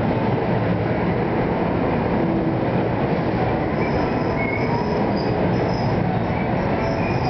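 NJ Transit bilevel passenger coaches rolling slowly past as the train pulls into the station: a steady rumble of wheels on rail. Thin, high wheel squeals come in faintly about four seconds in.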